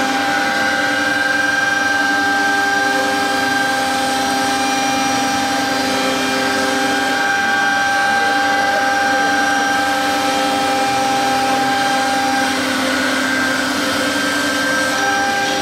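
3.5 kW air-cooled spindle of a 1325 CNC router running while it machines fiber board: a steady whine made of several held tones over a layer of noise, with one of the tones dropping out for a couple of seconds near the end.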